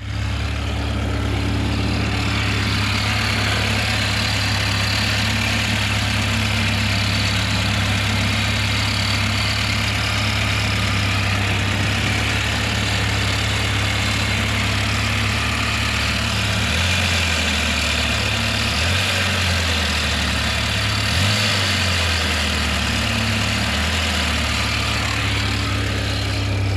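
VAZ-2107 inline-four engine idling with a knock that the owner locates toward the front, louder on the water-pump side, and suspects comes from the water pump. Its low hum wavers in pitch a few times in the last third.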